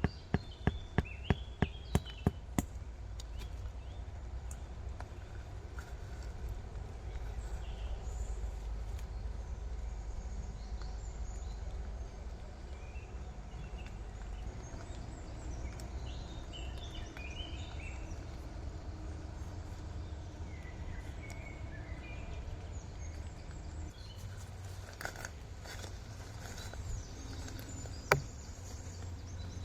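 A quick run of sharp knocks, about three a second, stops after two and a half seconds. Then there are scattered bird chirps over a low steady rumble, with one more sharp knock near the end.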